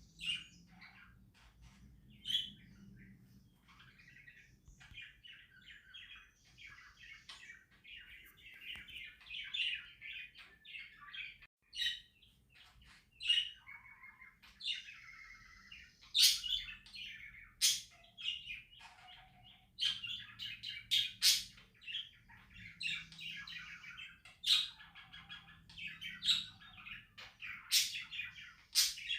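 Pet budgerigars chattering in a continuous warble, with sharp, loud chirps breaking in repeatedly, mostly in the second half.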